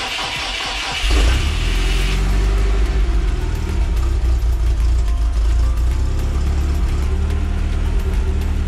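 Land Rover Series 1 engine cranked on the starter and catching about a second in, then running steadily with a strong low note.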